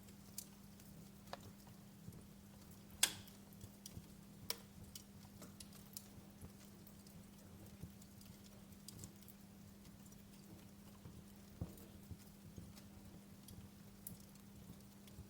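Wood fire crackling in a fireplace: sharp pops and snaps at irregular intervals, the loudest about three seconds in, over a faint steady low hum and hiss.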